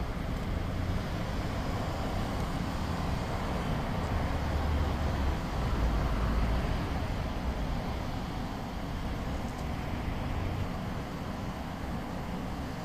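Steady low rumble and hiss of a Shinkansen bullet train rolling slowly along an elevated viaduct, heard from a distance, swelling a little in the middle.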